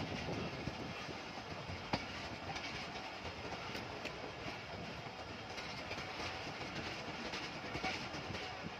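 Passenger train coaches running along the track: a steady rumble of wheels on rails, with one sharp click about two seconds in. Heard from an open window of the moving coach.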